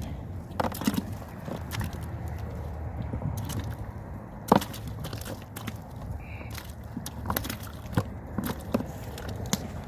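Pork back-bones knocking and scraping as they are put into a cast-iron cauldron: scattered irregular knocks, the loudest about four and a half seconds in, over a steady low rumble.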